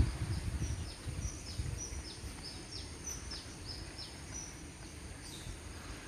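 A bird singing a quick run of short, high, down-slurred notes, about three a second, that stops about four and a half seconds in. Underneath are low rumbling and thumps from the moving microphone.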